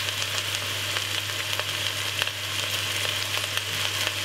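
Stir-fry vegetables (cabbage, carrot, sweet corn and red onion) sizzling steadily in olive oil in a frying pan, with scattered small pops.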